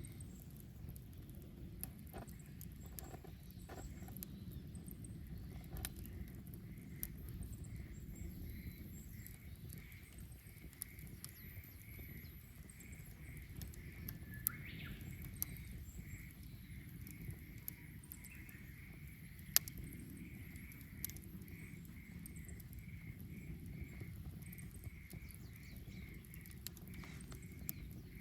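Wood bonfire crackling with scattered sharp pops over a low rumble from the flames. A faint high call pulses steadily about twice a second behind it.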